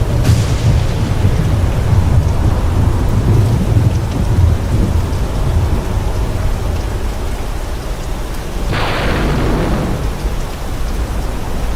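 Steady rain with thunder rumbling low through the first half. A sudden sharp burst comes right at the start and another about nine seconds in, each fading over about a second.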